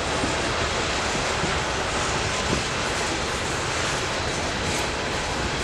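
Train rolling past on the track: a steady, even rush and rumble.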